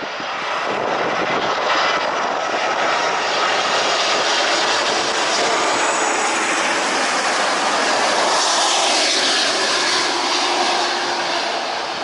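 Jet airliner passing low overhead on its landing approach, engines roaring. The sound builds over the first second, holds loud and steady, and begins to fade at the end.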